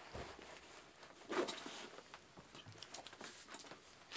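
Light rain starting again, faint scattered drops pattering, with a brief louder rustling noise about a second and a half in.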